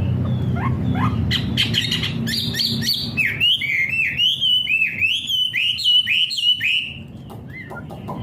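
Songbird known to bird-keepers as a wambie singing vigorously in full voice. It gives quick rising chirps and clicks, then a steady series of swooping whistled notes, about two a second, that stops about seven seconds in. A low hum underneath fades out in the first few seconds.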